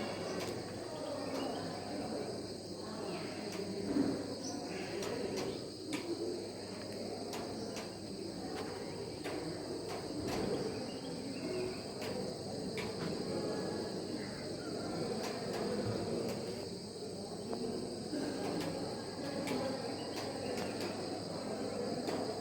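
Steady chorus of insects, a continuous high-pitched buzzing trill that holds unbroken throughout, over a low background murmur with scattered faint clicks.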